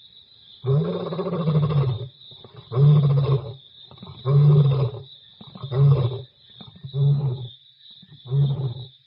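African lion roaring bout: one long, deep roar, then a run of shorter roars about a second apart, each briefer than the last. A steady high drone runs underneath throughout.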